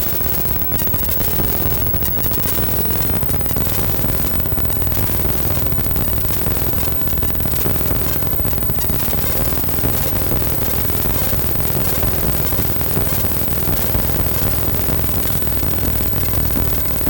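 Noisy electronic synthesizer music: a dense wash of static-like noise over a steady low drone, shot through with rapid crackling clicks.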